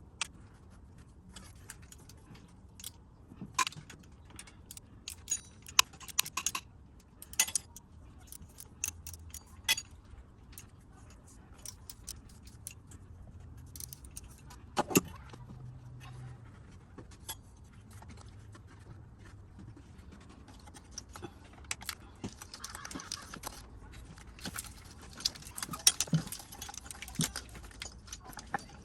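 Metal hand tools and parts clinking and clattering irregularly, sharp clinks at uneven intervals, with denser runs of clicks late on.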